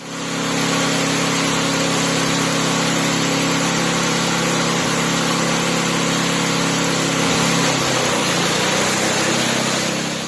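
Riding mower's small Briggs & Stratton engine running steadily, with a hissy exhaust note that starts and cuts off abruptly.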